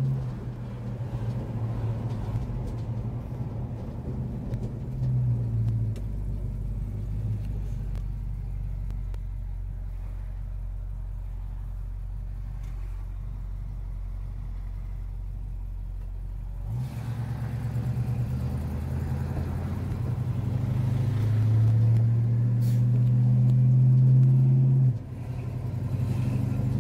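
1969 Dodge Super Bee's 383 V8 heard from inside the cabin while driving. The engine eases off and runs at low revs as a steady rumble for about ten seconds. Then it pulls hard, revs climbing, and the pitch drops suddenly near the end as the TorqueFlite 727 automatic shifts up.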